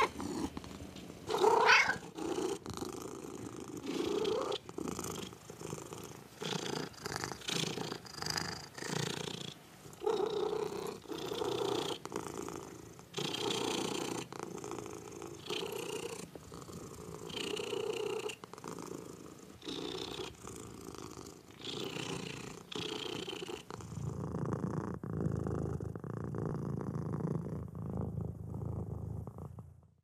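Domestic cat purring in a steady rhythm of in- and out-breaths, about one cycle a second, after a short rising meow near the start. For the last several seconds the purr is deeper and lower.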